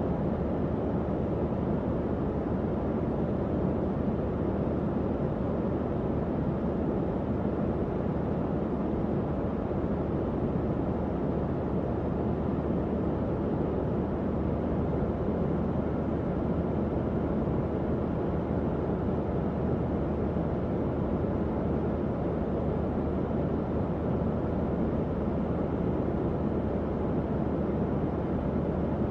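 Tower fan running steadily, a constant low whoosh of moving air with a faint hum underneath.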